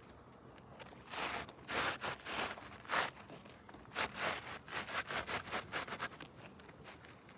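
Irregular scraping and rustling on a roof surface, a run of short rough scrapes with a quicker cluster in the middle and later part.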